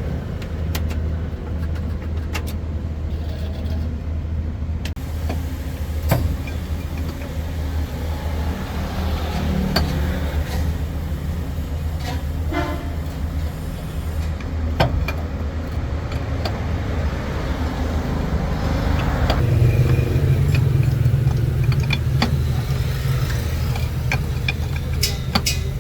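Truck engine idling steadily, with scattered sharp clicks and knocks over it. The engine sound swells a little louder about twenty seconds in.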